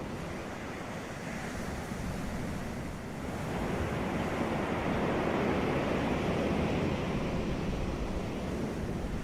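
Ocean waves washing onto a beach in a continuous hiss of surf, one wave swelling about three and a half seconds in and easing off near the end.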